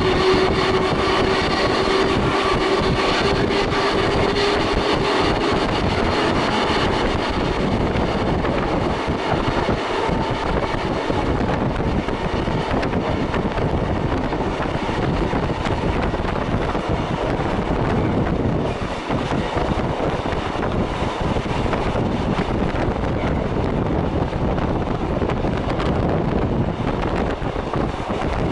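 Ride inside the 1926 Kotoden No. 300 electric car in motion: the whine of its nose-suspended traction motors and gears rises slightly in pitch, then fades after about six seconds. Under it runs a steady rumble of the wheels on long welded rail.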